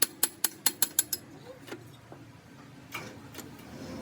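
A rapid, even run of sharp metallic clicks, about five a second, that stops a little over a second in, followed by a few single clicks: hand-tool or mechanism clicking during gear repair work.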